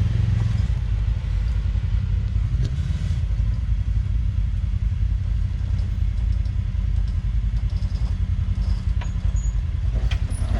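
Side-by-side UTV engine running at low speed with a steady low rumble, and a few light knocks near the end.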